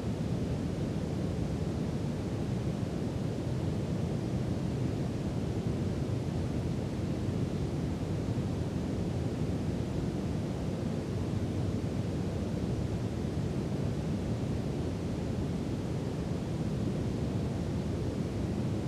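Brown noise: a steady, even hiss weighted toward the low end, with no changes or events.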